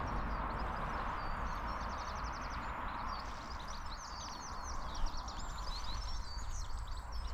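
Woodland birds singing, with many short chirps and a rapid trill, over the crunching, rhythmic footfalls of a dog walking a trail, picked up by a camera strapped to the dog.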